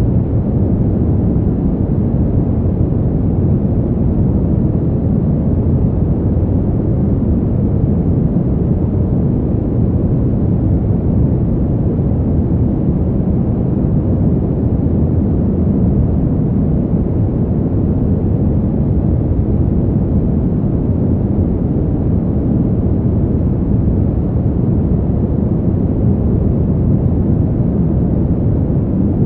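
Steady winter wind noise, a deep, dull, even rush with no gusts or breaks, played as a sleep sound.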